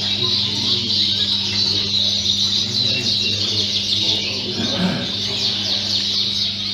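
A hall full of Fife canaries singing and chirping all at once in a dense, unbroken chorus, over a steady low hum.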